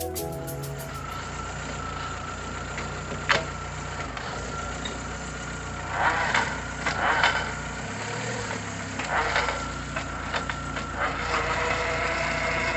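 A VW SpaceFox's engine running steadily, with bursts of creaking, grinding noise about halfway through and twice more later. This is the noise of the car's faulty CV joint as the wheel is turned.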